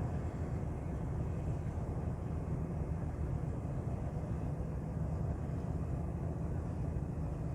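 A ship's engine running steadily: a low, even rumble.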